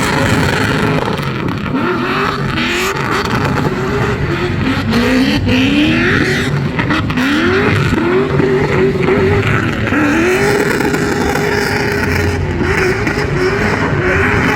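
LS-swapped BMW E46 drift car's 4.8-litre V8, with a stage 2 cam and long-tube headers, revving hard over and over: each rev climbs quickly and then holds near the top before dropping back. The exhaust is loud and raw.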